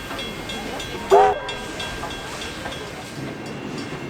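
A steam-hauled train behind Garratt locomotive 6029 rolling along the track. About a second in comes one short, loud pitched sound, and a faint high ticking runs at about three times a second.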